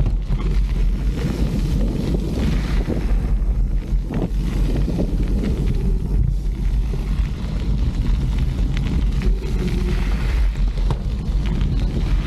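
Mountain bike riding a dirt trail: wind buffeting the microphone over the roll of the tyres and the rattle of the bike, with scattered short knocks.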